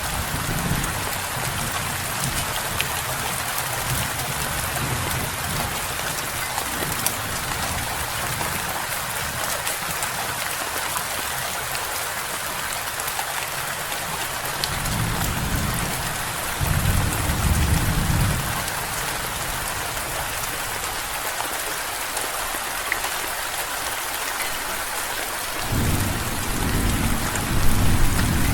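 Steady rain with rolling thunder: low rumbles come in about halfway through and again near the end.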